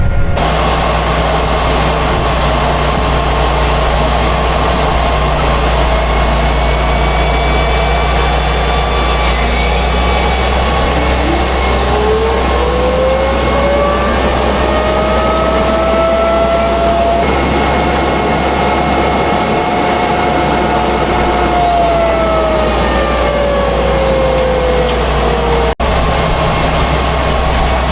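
Tractor engine running steadily while pulling a planter. A whine rises in pitch about a third of the way in, holds, then falls near the end.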